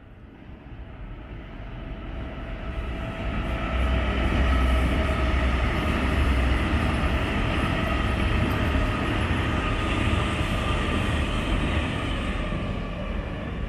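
A train passing on the rails. It grows louder over the first few seconds, runs steadily, then eases off near the end.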